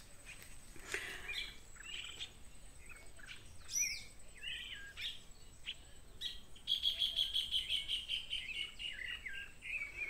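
Several wild birds chirping and calling, with short whistled notes that arch downward; from about seven seconds in, one bird gives a fast run of repeated notes, falling slightly in pitch.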